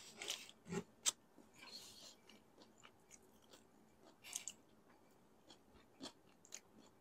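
Close-miked chewing of food, soft wet mouth sounds with a few sharp clicks scattered through, the sharpest about a second in.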